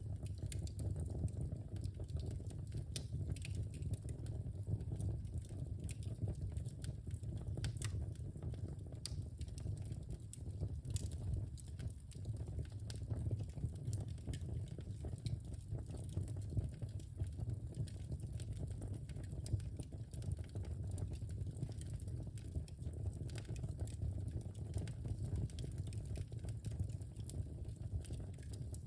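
Wood fire burning in a fireplace: a steady low rumble of flames with frequent small irregular crackles and pops from the burning logs.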